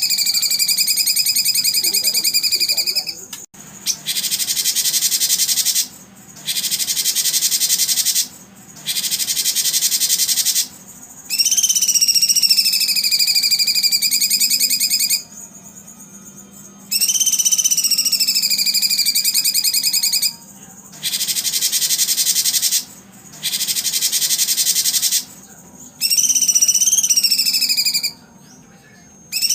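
A recording of shrill animal calls played on repeat, the kind used to train competition songbirds. Each phrase lasts two to four seconds with short breaks between. Some phrases hold a slowly falling whistle under a high buzz; others are the high buzz alone.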